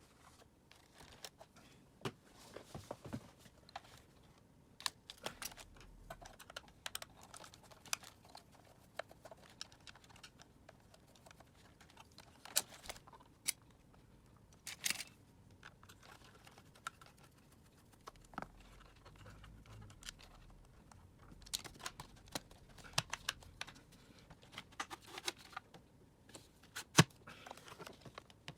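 Irregular clicks and taps of the plastic parts of a Dyson vacuum cleaner and hand tools being handled during disassembly. The sharpest click comes near the end.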